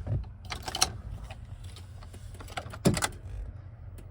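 Clicks and knocks of handling inside a truck cab over a low rumble: a few light clicks about half a second in and a sharper knock about three seconds in.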